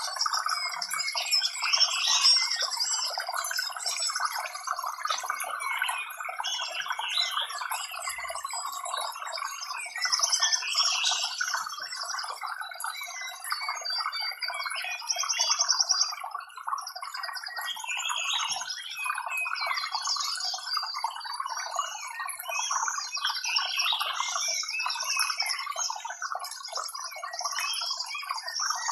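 Many birds chirping and calling over one another in a dense, unbroken chorus, with many short high chirps above a steady busy layer of calls.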